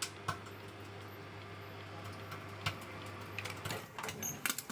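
National Elec NE-6310 microwave oven running, a steady low hum with scattered clicks, several in quick succession near the end.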